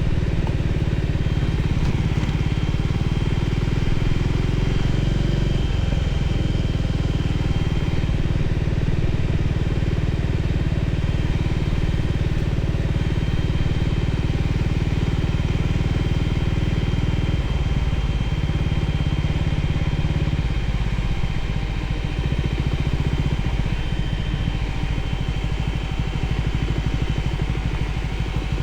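Voge 300ACX motorcycle's single-cylinder engine running steadily, with its note shifting about six seconds in and again around eighteen and twenty-one seconds.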